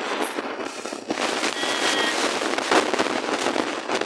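Dense, continuous crackling and rustling noise.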